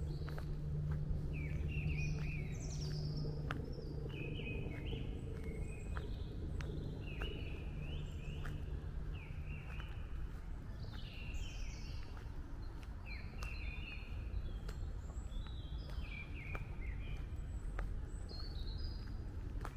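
Songbirds singing in short, repeated high chirping phrases throughout, over a steady low hum that fades about halfway through.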